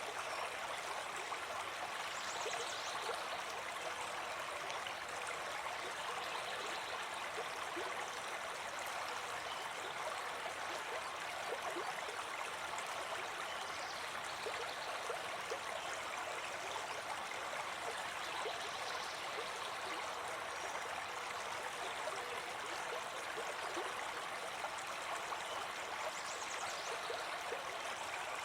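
Brook babbling steadily, an unbroken rush and gurgle of running water.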